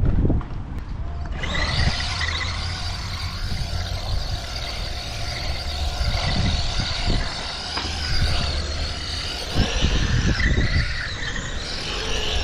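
Feiyue 1/12-scale short course RC truck driving, its brushed electric motor and gears giving a steady whine that starts suddenly about a second and a half in. A low, irregular rumble runs under it.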